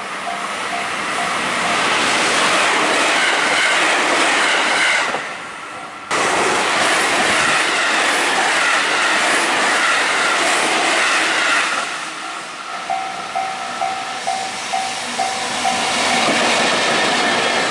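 Japanese level-crossing alarm ringing in even pulses about twice a second, then a stainless electric commuter train passing over the crossing with loud wheel clatter. The sound breaks off sharply about six seconds in and resumes. From about twelve seconds the crossing alarm rings again as a JR Freight EF64 electric locomotive hauling a container train comes through.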